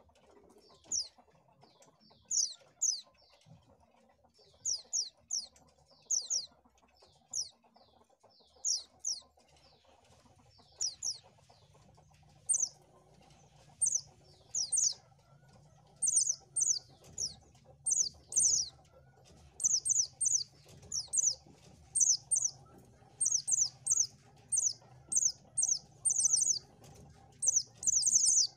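White-eye (pleci) calling: short, high chirps that each fall in pitch, given singly or in quick pairs and triplets. They come sparsely at first, then about halfway through turn into a fast, nearly unbroken run.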